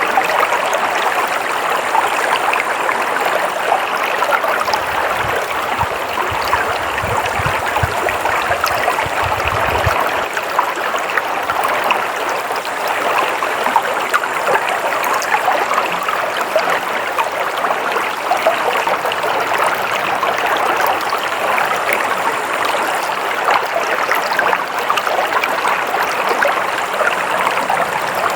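Water flowing steadily in a stream, an even splashing rush with no pauses. A faint low rumble comes in for a few seconds about five seconds in.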